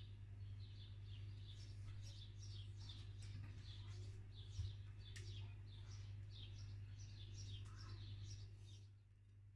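Faint birds chirping, quick short chirps several a second, over a steady low hum. A soft knock about halfway through; the chirping stops near the end.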